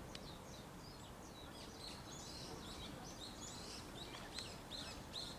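Small birds chirping in quick, short high notes, busiest in the middle, over a steady low outdoor hum.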